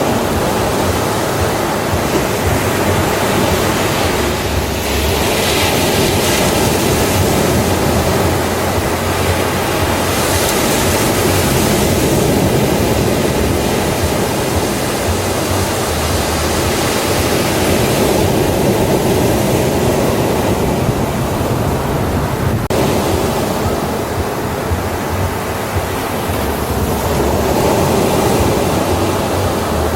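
Ocean waves breaking on a beach: a continuous loud wash of surf that swells and eases every several seconds.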